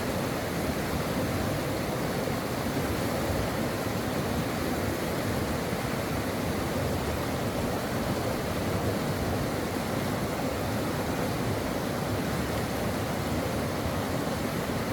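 Brook water rushing steadily over rocks, an even, unbroken flow noise.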